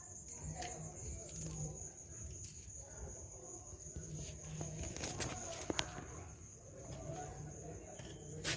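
Crickets trilling steadily on one high note, with a few faint low sounds and a couple of sharp clicks a little past halfway.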